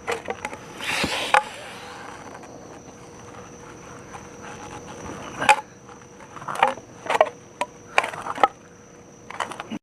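Scattered knocks and scrapes of a shovel working at concrete sidewalk slabs, a few a second apart, over a faint steady high-pitched whine.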